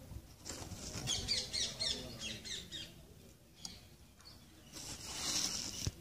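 A bird chirping in a quick run of short high notes, followed near the end by a soft hiss and a single thump.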